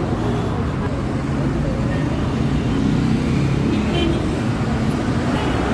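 Steady low rumble of road traffic, with faint voices mixed in.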